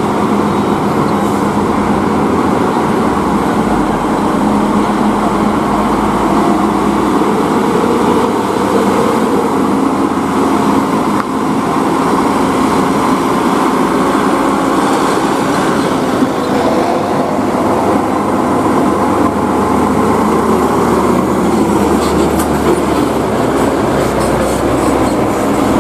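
Heavily loaded tronton (tandem-axle) truck's diesel engine running under load, a loud steady drone with a low hum.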